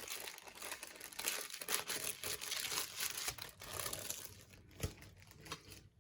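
Plastic packaging sleeve crinkling and crackling as it is handled, thinning out after about four seconds, with a soft knock about five seconds in.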